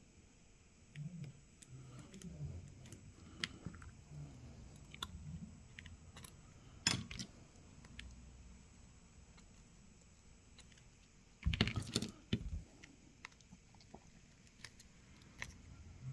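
Scattered light clicks and taps of small tools and phone parts being handled on a work surface, with a louder cluster of knocks about eleven and a half seconds in.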